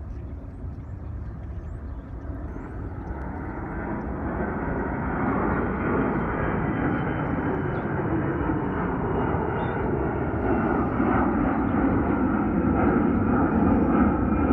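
Jet engines of a Delta Airbus A321 airliner: a wide roar that grows steadily louder as the aircraft nears.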